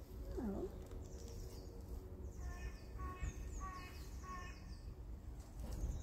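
Wild birds calling in woodland: repeated high, falling chirps, and in the middle four short, harsher calls about half a second apart. A low rumble runs underneath.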